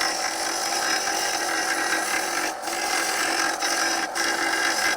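Belt sander with an 80-grit belt running, its belt grinding across the steel edge of a mulching lawnmower blade to flatten out big nicks. A steady, rasping grind with a few short dips where the blade eases off the belt.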